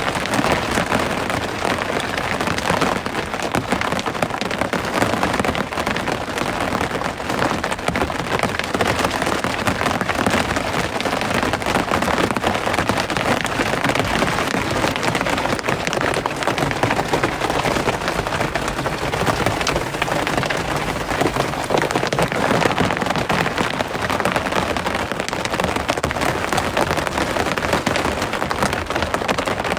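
Steady rain falling, a dense, even patter of drops that holds at the same strength throughout.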